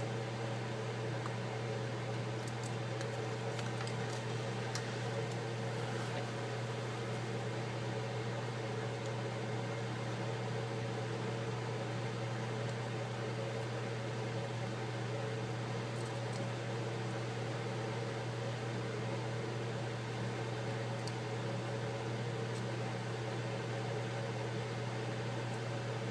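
Steady low hum with an even hiss over it, as from a fan or similar appliance running, with a few faint small ticks.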